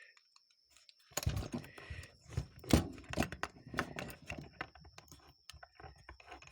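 Small metal parts of a Rochester Model H carburetor clicking and clattering as they are handled and fitted together during reassembly, with a quick run of irregular clicks and one sharper knock about three seconds in.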